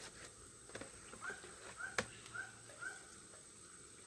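Faint short high chirping calls from a small animal, five or so in a row about half a second apart, each rising and falling quickly. A sharp click about two seconds in, with a steady thin high whine underneath.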